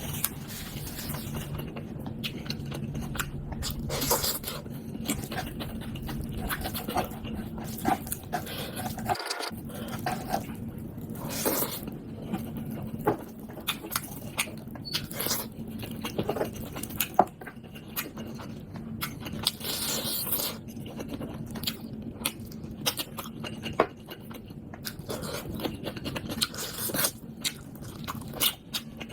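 Close-up eating sounds: chewing and biting into pork, with irregular wet clicks, crunches and scrapes.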